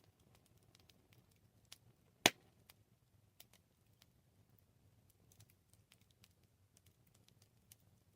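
Campfire burning, the wood crackling in scattered faint snaps and ticks over a low soft rush. One loud pop comes a little over two seconds in.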